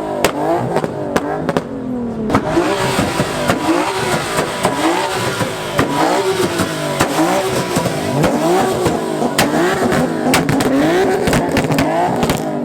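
A car engine revved hard over and over in quick blips, about once a second, its pitch rising and dropping each time, with sharp cracks from the exhaust mixed in.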